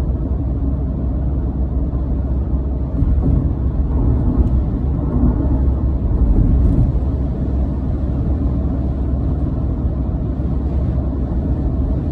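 Steady low road and engine rumble heard from inside a moving car at highway speed, growing a little louder for a few seconds partway through.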